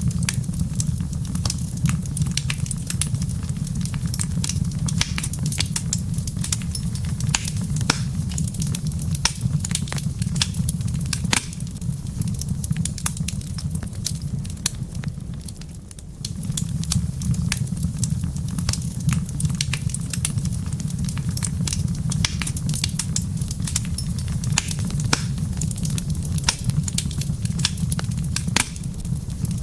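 Wood fire in a fireplace crackling and popping, with many sharp snaps over a steady low rumble. The rumble drops away about a third of the way in and returns a few seconds later.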